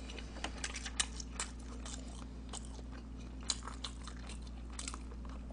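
A person chewing a mouthful of seaweed-coated rice ball close to the microphone: a run of small wet clicks and smacks, a little louder about a second in and again about three and a half seconds in, over a steady low electrical hum.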